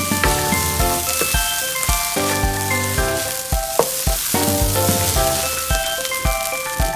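Fried rice sizzling in a wok as a wooden spatula stirs it, over background music with a steady beat.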